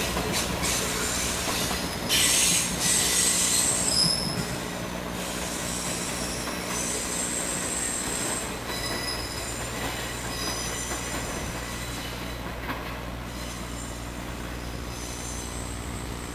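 Shonan-colour JNR electric multiple unit train running towards the listener with a steady low rumble, its wheels squealing in high, shifting tones that come and go, loudest about two to four seconds in.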